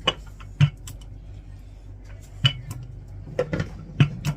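Rolling pin knocking and clacking against the worktop as pastry dough is rolled out: about seven sharp knocks at uneven intervals, with a low steady hum underneath.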